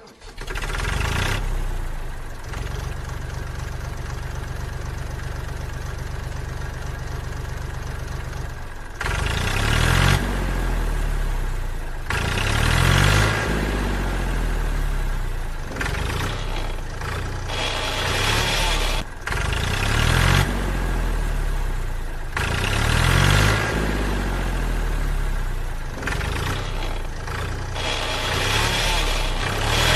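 Tractor engine idling steadily, then, about nine seconds in, revving up and down over and over for the rest of the time.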